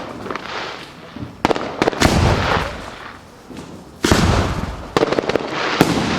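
Fireworks bursting: a run of about five sharp bangs, the loudest about two and four seconds in, each followed by a long echo, with smaller crackles between them.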